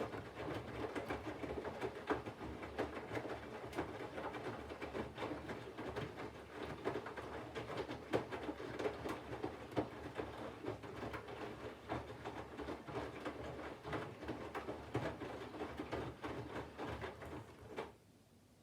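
Candy front-loading washing machine tumbling its load during the water-heating phase of a 40° wash: the drum turns, with wet laundry and water sloshing and thudding inside. It stops suddenly about 18 seconds in as the drum pauses.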